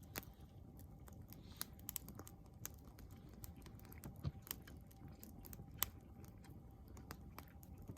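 Campfire wood crackling and popping: irregular sharp snaps, a few louder pops among them, over a low steady rumble.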